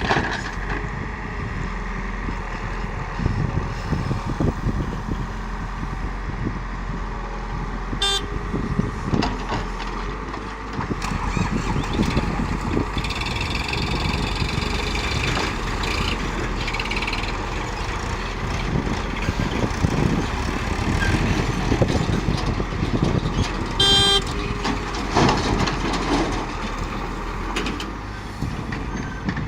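Heavy vehicle engines running steadily, with two short horn toots, one about a quarter of the way in and one later on.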